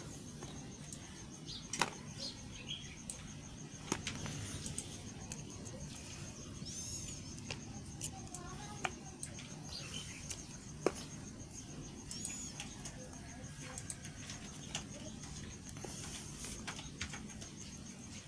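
Soft, scattered clicks and taps from bars of soap being handled, the strongest about two, four and eleven seconds in, with birds chirping faintly in the background.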